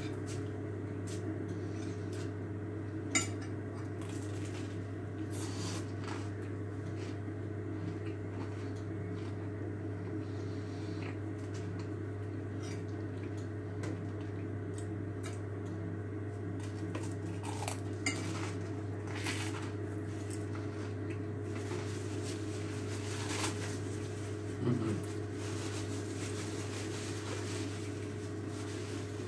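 Crunchy cheesy garlic bread being chewed, with scattered crunches and a few sharp clicks over a steady low hum.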